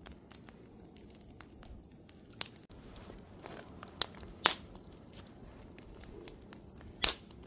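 Wood fire crackling, with a soft steady hiss under scattered sharp pops, a few of them louder. The sound cuts in suddenly at the start.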